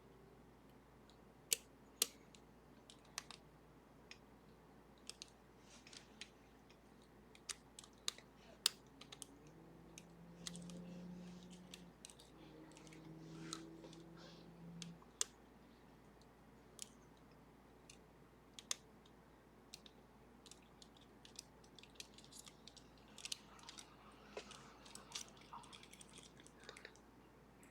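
Faint, irregular light clicks and ticks of lock picks working the levers of a Sargent & Greenleaf 4440 series safe deposit box lever lock.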